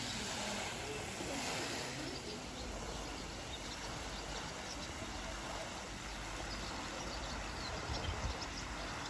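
Steady rush of flowing water, with faint short high chirps in the second half.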